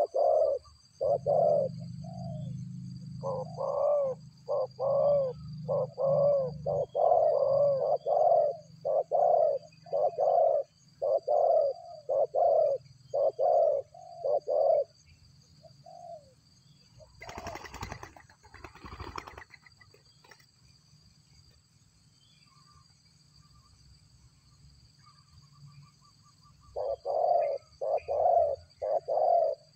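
Dove-like cooing notes repeated about twice a second as a bird-trapping lure call. They stop for about ten seconds, with a brief rustling noise in the gap, then start again near the end.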